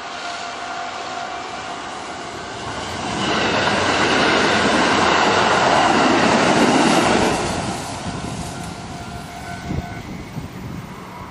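Japanese level crossing warning bell ringing steadily as an electric commuter train rushes through on the Kintetsu Nara Line, the train loudest from about three to seven seconds in. The bell stops about ten seconds in.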